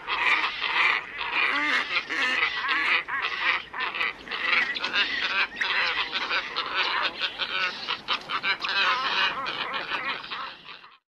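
A flock of black ibises calling together, many calls overlapping without a break. The calls cut off suddenly near the end.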